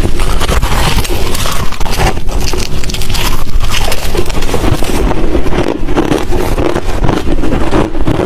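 Hard crushed ice and shaved ice chunks being bitten and chewed close to the microphone: loud, dense, irregular crunching.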